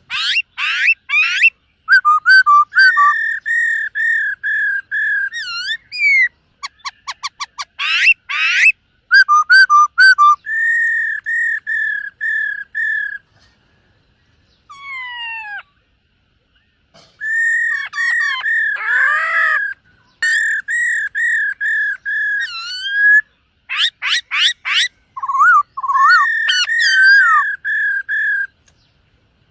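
Black-throated laughingthrush singing in loud whistled phrases: runs of clear notes repeated on one pitch, broken by quick rising sweeps, with short pauses between phrases.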